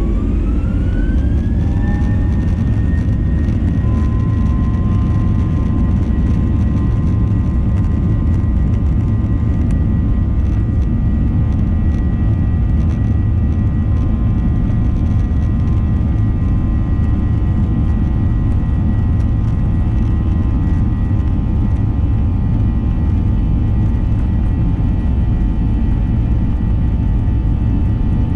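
Boeing 737-800's CFM56-7B jet engines at takeoff power during the takeoff run and climb-out, a heavy low rumble under a whine. The whine rises over the first couple of seconds, then holds steady at full thrust.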